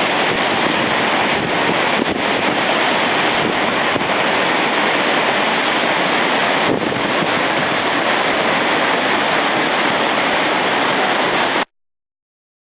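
Floodwater of a swollen river rushing through a rocky gorge: a loud, steady rush of water that cuts off abruptly near the end.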